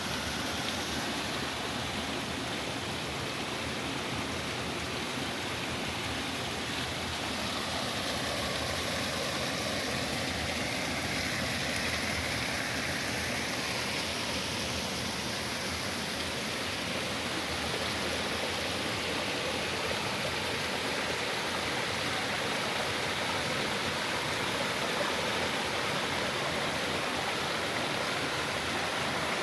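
Flowing water rushing steadily, a continuous even hiss and roar.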